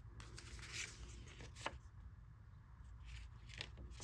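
Paper rustling with a few light clicks and taps as journal pages and paper inserts are handled.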